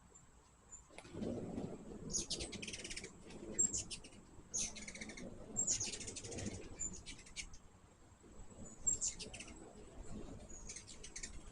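Hummingbirds chattering in repeated quick runs of sharp chips, each burst lasting up to about a second, with the low hum of their wings at times underneath.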